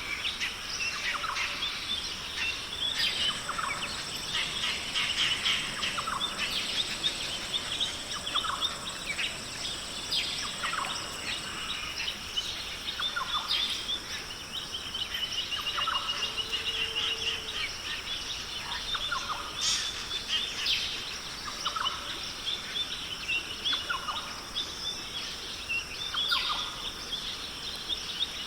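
Several birds chirping and calling over and across each other, many short notes throughout, over a steady high hiss; a thin, high steady tone runs under them for the first dozen seconds or so.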